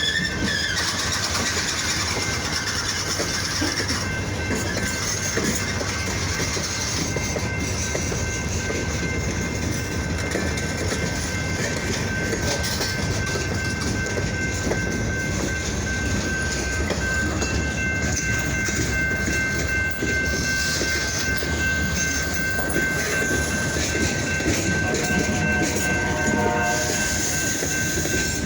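De Queen & Eastern freight train rolling past, its cars rumbling and clattering steadily on the rails. A thin, steady high-pitched squeal of wheels on rail runs through it.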